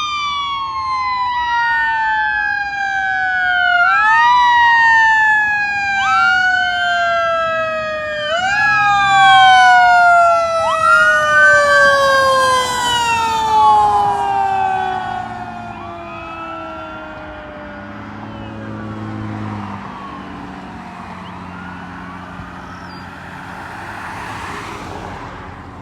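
Fire engine's siren sounding on a code 3 response, rising and falling in repeated sweeps. It grows loud, then falls in pitch and fades after about fifteen seconds as the truck moves away.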